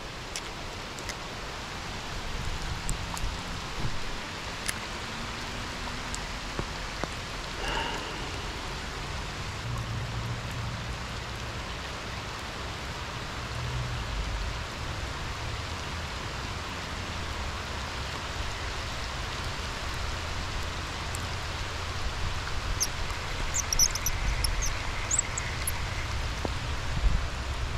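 Steady rain falling, an even hiss of drops that grows a little louder toward the end, with a low rumble underneath. A few sharper taps stand out near the end.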